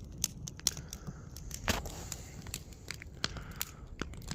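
Wood campfire crackling: irregular sharp snaps, several a second, over a low steady hiss.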